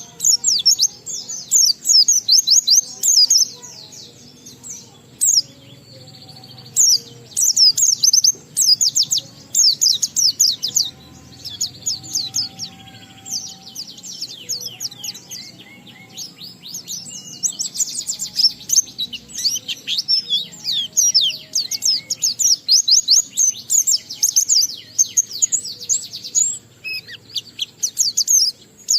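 A white-eye (pleci) singing a long, fast twittering song of rapid high sweeping notes, in extended runs broken by short pauses. This is the continuous 'ngalas' song that keepers play to set other white-eyes singing.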